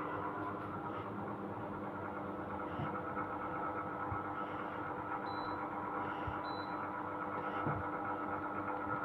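Sharp AH-A5UCY air conditioner running with a steady hum of several tones over a noisy hiss, the noise the unit is labelled for.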